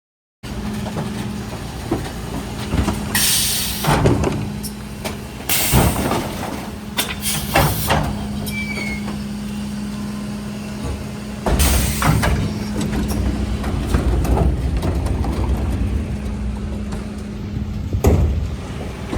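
Mercedes Econic refuse truck running with a steady hum, broken by about five short, loud air hisses and clunks.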